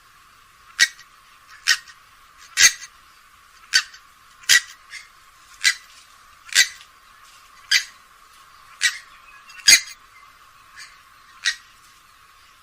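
Grey-headed swamphen calling: a series of short, sharp notes about once a second, some louder than others.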